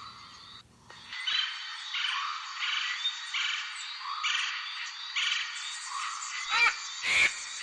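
Recorded eagle calls: a series of shrill, repeated calls, about one every two-thirds of a second over a hissy background, with two louder calls near the end.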